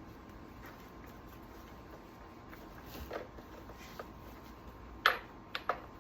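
A few small clicks and knocks from hand work on the chainsaw: soft taps around three and four seconds in, then one sharp click about five seconds in and two quicker ones soon after, as the bar nuts are tightened.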